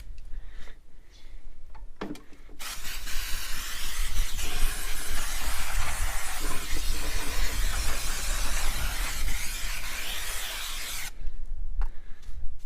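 Aerosol brake cleaner spraying: a short burst about two seconds in, then one long continuous spray of about eight seconds that stops abruptly. A low rumble runs underneath.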